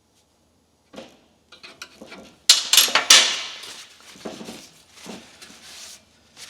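Metal hand tools clinking and clattering, with a loud clatter about two and a half seconds in and lighter knocks after it, as wrenches are handled at a leaking fuel-line fitting.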